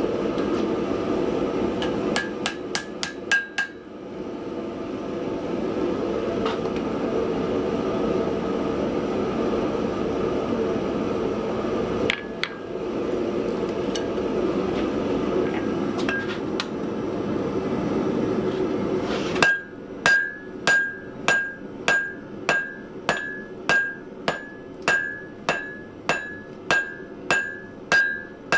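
Hand hammering on an anvil: after a long stretch of steady rushing noise broken by a few light taps, a regular run of hammer blows starts near the end, about two a second, each with a clear metallic ring.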